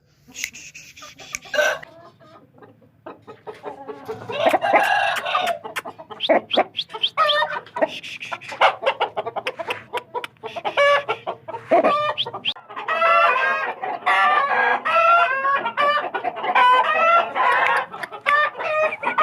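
Chickens calling: short pitched calls, sparse at first and coming thick and fast from about two-thirds of the way in, with scattered sharp clicks among them.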